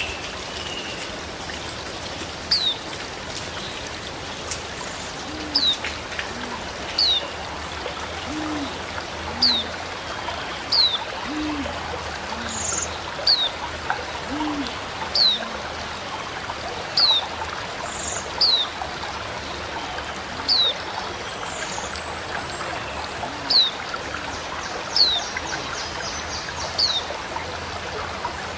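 A white-eye (pleci) calling in the wild, repeating a thin, high, downslurred note about every second or second and a half. A deeper short note comes in now and then, over a steady hiss of running water.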